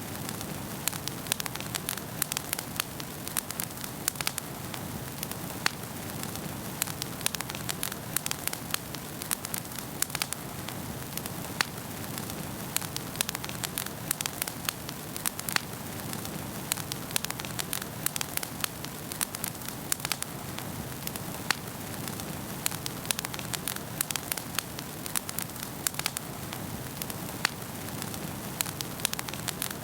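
Wood fire burning in a fireplace, crackling steadily with frequent sharp irregular pops over a soft hiss.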